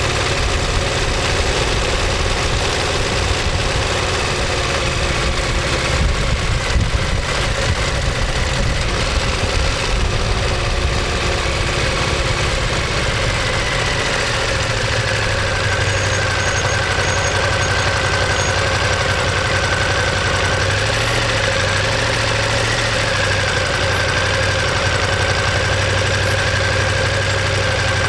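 Ducati Monster 1200S's 1198 cc L-twin engine and exhaust running steadily, with a few small shifts in pitch.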